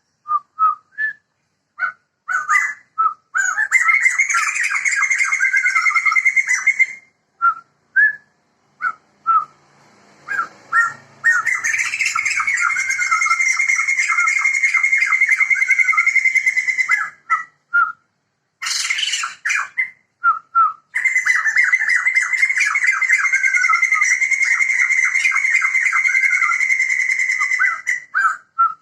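Sumatran laughingthrushes (Garrulax bicolor), a male and female pair, singing loudly. Short whistled notes come between three long bouts of rapid repeated notes, a loud cackling chatter typical of the species.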